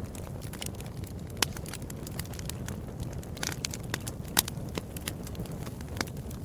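Wood fire in a fireplace crackling: a steady low rumble of burning with frequent sharp pops, two of them louder, about a second and a half in and just past four seconds.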